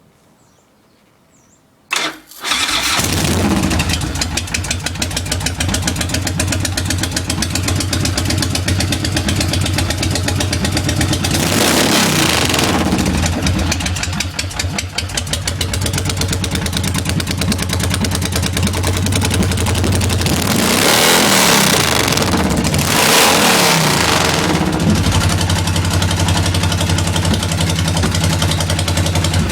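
A 120-cubic-inch Harman shovelhead V-twin motorcycle engine on dual Dell'Orto carburettors starts about two seconds in, catches and idles loud with a steady firing beat. It is revved up and back down three times, around the middle and twice near the end.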